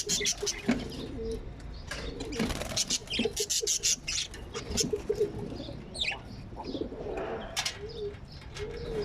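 Small parrots chirping in quick, repeated bursts, with low cooing calls repeating underneath.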